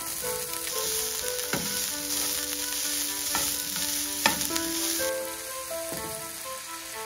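Sliced smoked sausage and broccoli sizzling in a frying pan as they are stirred, with a few sharp utensil clicks, the loudest a little past the middle. The sizzle drops away about five seconds in, over soft background music.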